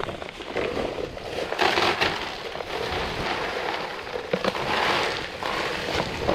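Quick-setting concrete mix being handled: a continuous gritty crunching and pouring, with louder surges about a second and a half in and again near five seconds in.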